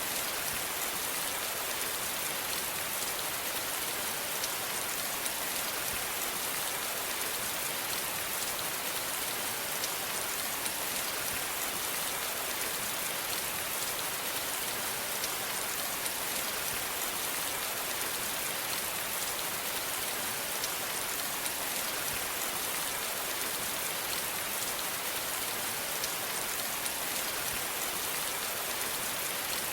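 Steady rain falling, an even hiss of drops hitting a surface, with faint individual drop ticks and no change in intensity.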